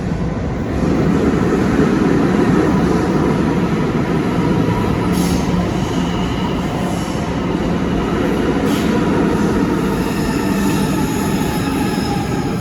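Train rolling slowly through a station with a steady rumble. High-pitched wheel squeal on the rails joins about halfway through and grows near the end.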